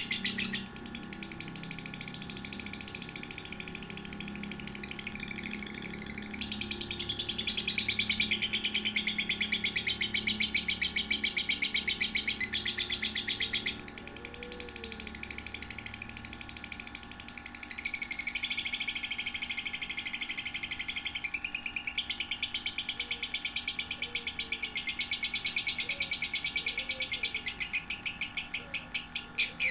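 Lovebird singing a long, rapid chattering trill of high chirps. It steps louder about six seconds in, drops back for a few seconds around the middle, rises again past the halfway point and stops abruptly at the end.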